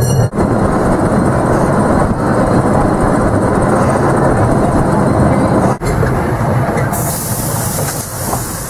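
Ride in an open carriage behind a small 15-inch-gauge steam locomotive on a park railway: the steady rolling and running noise of the train. A hiss of steam joins near the end as the train slows into a station.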